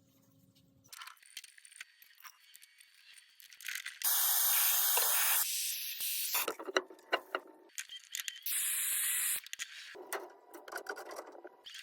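Soldering torch hissing in several separate bursts that start and stop abruptly, with small metallic clicks and rattles of tools and copper fittings in between.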